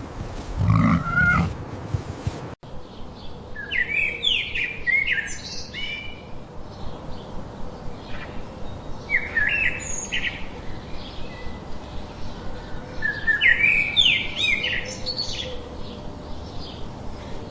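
A songbird singing short, quick phrases of falling notes, repeated three times with pauses between, over a steady outdoor background. In the first two seconds there is a brief low sound before the audio cuts.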